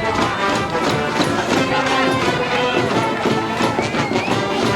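School brass band playing a baseball cheering theme: massed trumpets and brass holding a melody over steady drum beats.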